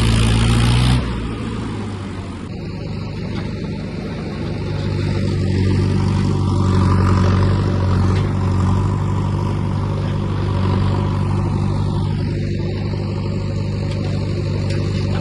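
Tractor engine running steadily. Its loudness drops suddenly about a second in and builds up again a few seconds later.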